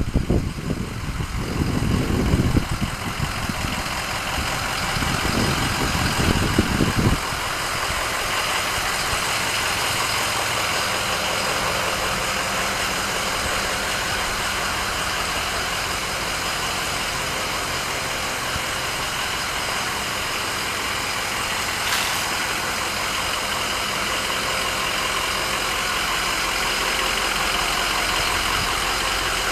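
Ford 6.0L Power Stroke V8 turbo diesel idling steadily, with a faint high whine running through it. For about the first seven seconds an uneven, louder low rumbling lies over it before the sound settles. A single click comes about 22 seconds in.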